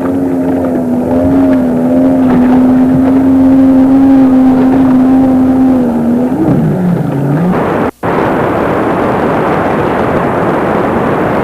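Small boat engine, most likely a jet ski, running at steady high revs, then wavering and dropping in pitch as it slows. The sound cuts out abruptly near the end and gives way to a steady rushing noise.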